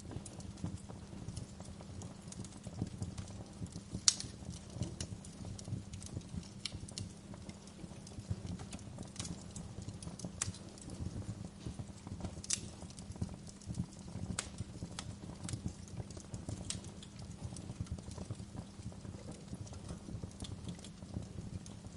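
Wood fire crackling, with irregular small pops and a couple of sharper cracks, one about four seconds in and one near the middle, over a low steady rumble.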